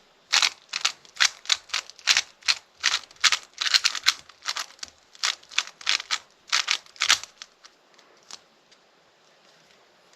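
Rubik's cube being turned quickly by hand: a run of about twenty sharp plastic clacks, roughly three a second, that stops about seven seconds in, with one last fainter click a second later.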